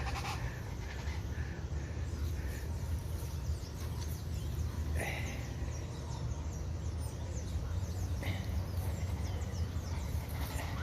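A toucan giving short harsh calls, about five and eight seconds in, over a steady low rumble, with faint high chirps.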